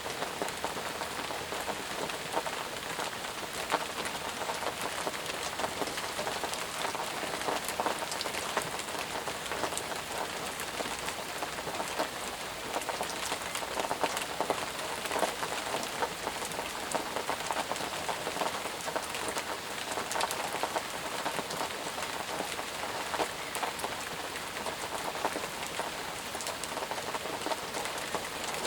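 Steady, heavy rainfall: a dense, even hiss of rain with many individual drops striking close by.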